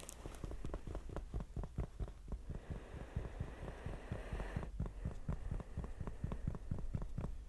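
Soft, close-miked ASMR tapping: a fast run of muffled low taps, several a second, with a stretch of scratchy rubbing in the middle.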